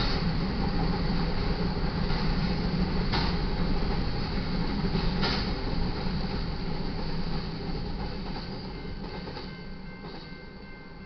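Loaded freight cars, covered hoppers, rolling past over jointed track with a steady rumble of wheels and a couple of sharp clanks. The noise fades over the last few seconds as the end of the train clears the crossing, and the grade-crossing bell's steady ringing comes through.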